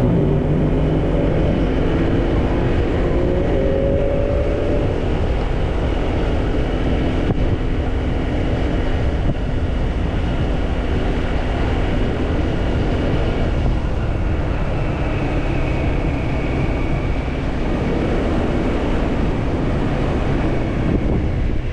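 Motorcycle engine running while riding, heard from the rider's camera with road and wind noise; the engine pitch rises over the first few seconds as it accelerates, then settles into a steady cruising rumble.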